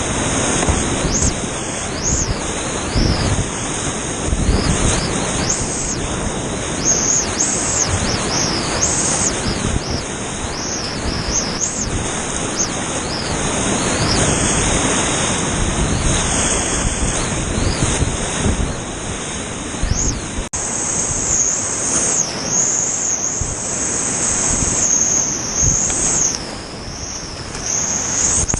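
Rushing whitewater of a steep creek heard up close from a kayak, a loud, steady wash of water noise that surges unevenly.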